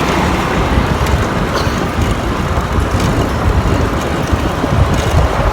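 Wind buffeting the microphone of a moving bicycle rider, a loud, uneven low rumble, mixed with road traffic noise.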